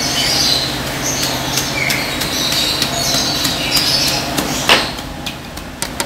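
Small birds chirping over a steady low hum, with scattered clicks and one sharp knock near the end.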